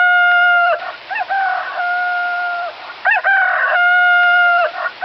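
Rooster crowing cock-a-doodle-doo again and again, each crow rising into a long held note.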